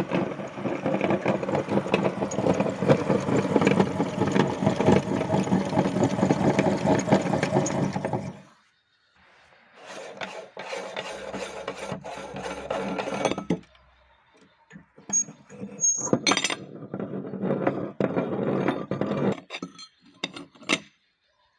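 A meat grinder crunching through chalk with a dense, rough grinding that stops suddenly about eight seconds in. Shorter, quieter bouts of scraping follow, with sharp clinks and clicks between them and near the end.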